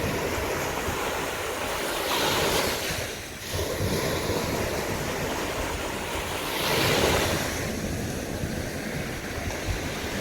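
Sea waves breaking and washing up a beach, the surf swelling twice, with a little wind on the microphone.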